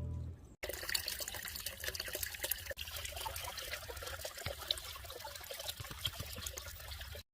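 Water trickling steadily, a small flow of running water with fine splashing. It starts suddenly under a second in and cuts off abruptly near the end.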